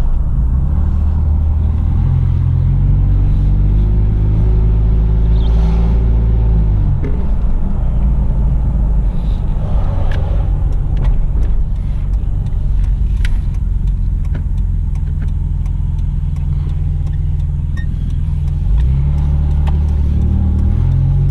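A 2004 Nissan Xterra SUV driving on the road, with engine and road rumble heard from inside the cabin. The engine pitch rises for a few seconds as it accelerates, then drops about seven seconds in and runs steady.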